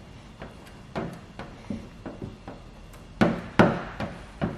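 A string of irregular knocks and taps, faint at first, with three louder knocks in the last second and a half.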